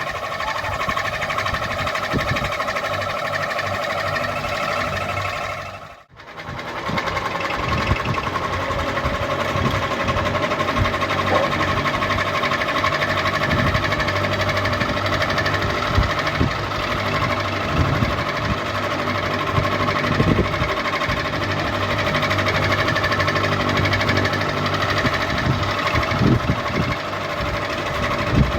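Ceiling fan running steadily: a motor hum made of several steady tones over a low rumble, with occasional light knocks. The sound cuts out briefly about six seconds in and then resumes.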